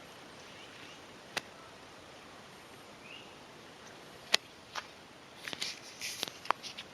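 A few sharp clicks and taps over a faint steady hiss, the loudest about four and a half seconds in, with a quick run of them near the end.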